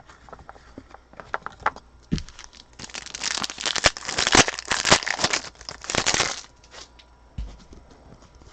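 Wrapper of a pack of football trading cards being torn open: a dense rustle lasting about three and a half seconds in the middle, with lighter rustles and taps of card handling before and after.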